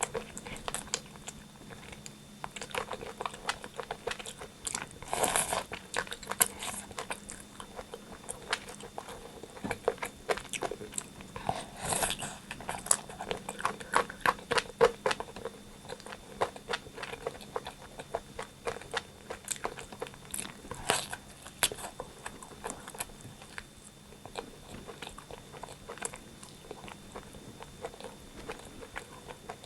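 Close-miked eating of rotisserie chicken: wet chewing and smacking with crunchy bites of crisp skin, in irregular clusters throughout.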